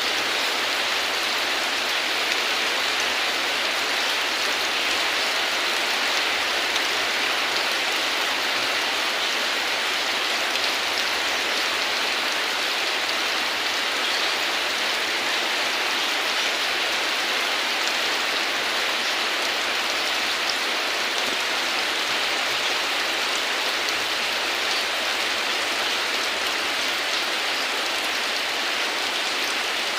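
Steady heavy rain falling, an even hiss without pauses or thunder.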